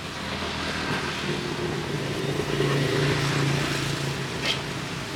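A motor vehicle's engine running and passing close by, its steady hum growing louder in the middle and then fading.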